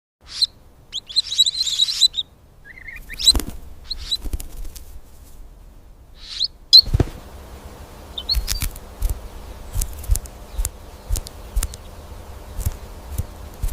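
A small bird chirping in short, high calls, several times over the first seven seconds, with one lower rising chirp among them. Soft clicks and knocks sound throughout, and from about halfway a low rumble with repeated knocks runs underneath.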